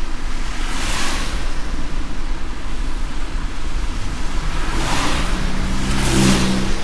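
Car driving on a wet road in light rain: a steady low rumble of road noise, with swells of wet hiss about a second in and twice near the end, the last carrying a brief low engine-like hum.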